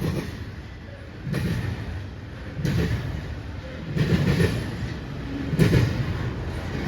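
Intermodal freight train rolling past a grade crossing, its wheels clattering over the rail joints in a rhythmic beat about every second and a quarter, over the steady rumble of the cars.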